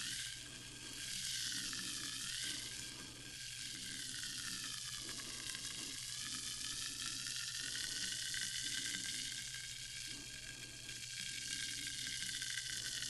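Sparkling water fizzing: a steady crackling hiss of bursting carbonation bubbles, with faint tones that slowly drift up and down in pitch and a low hum underneath.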